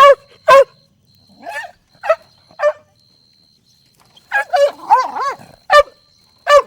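Puppy yipping and barking in short, high-pitched calls. Single barks come in quick succession, a second of pause follows, and then a flurry of rising-and-falling yelps comes before a couple more barks.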